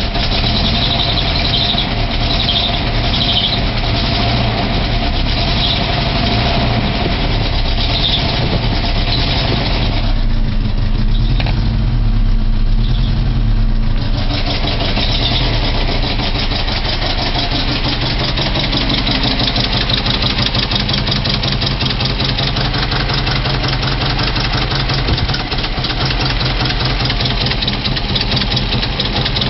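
Volvo 240 engine running with a fast, even ticking clatter over its steady hum: the strange noise the car is making. For a few seconds near the middle the higher clatter drops away and the deeper engine sound swells, then the ticking comes back.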